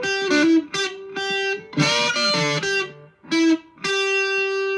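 Electric guitar on its bridge pickup played through a JHS Ross Distortion pedal set to germanium mode: a distorted lead phrase of separate picked notes, ending on one long held note.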